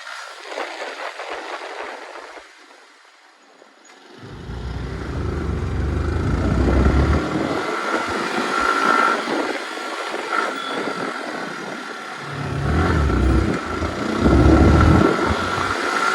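Motorcycle being ridden, its engine running under a steady noise. Gusts of wind buffet the phone's microphone in heavy low rumbles, mostly in the second half.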